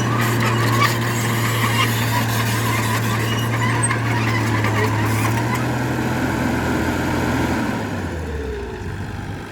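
Bulldozer's diesel engine running steadily under load, with clattering and squeaks from its tracks. Near the end the engine slows, dropping in pitch, and the sound fades out.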